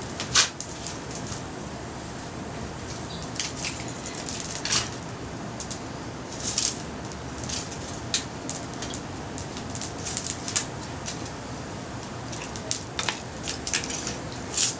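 Scattered sharp clicks and crackles, about a dozen at irregular intervals, the loudest about half a second in, over a steady background hiss.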